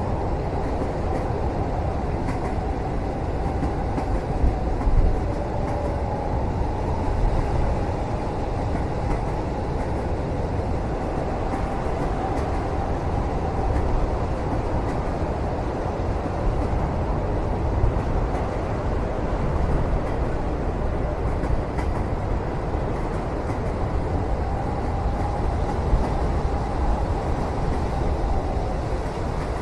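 Steady low rumble of a moving train heard from inside a passenger cabin, with a faint wavering whine and a few soft knocks.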